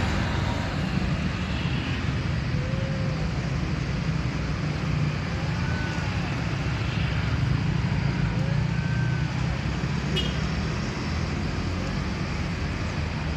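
Steady road-traffic rumble, with a few faint short tones that rise and fall over it.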